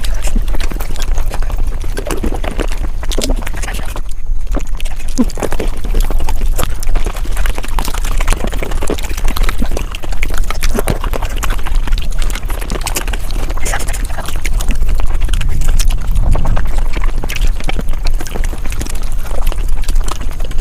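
Mukbang eating sounds played back at five times speed: close-miked chewing and mouth sounds turned into a dense, rapid run of clicks, with a brief break about four seconds in.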